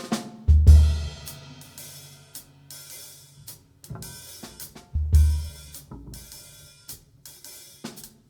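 Live blues band's drum kit playing a sparse, stop-time opening: cymbal and hi-hat strokes with scattered snare hits, and two heavy low accents about four and a half seconds apart.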